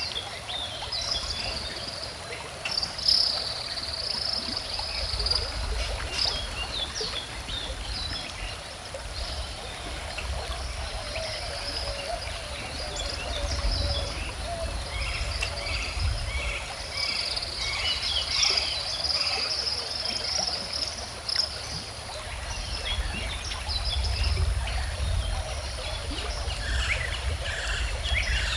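Calm river water flowing steadily, with birds chirping and trilling throughout.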